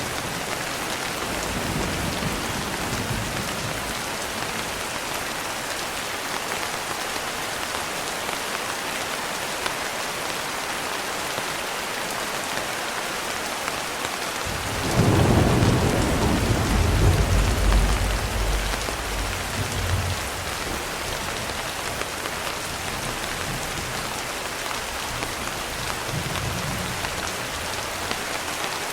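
Steady rain falling, with a sudden clap of thunder about halfway through that rumbles away over several seconds. Fainter low thunder rumbles come near the start and near the end.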